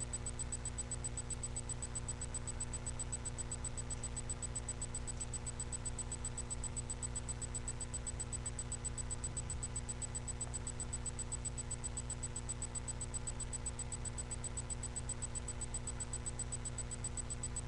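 Steady electrical hum and hiss of a webcam microphone, with a faint high whine, unchanging throughout and with no distinct handling noises.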